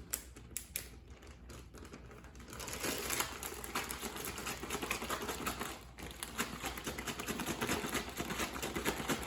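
Plastic bag of sliced steak and marinade being shaken and worked by hand to mix in the seasonings: a few light clicks, then a dense crinkling rattle from about three seconds in that breaks off briefly near six seconds and resumes.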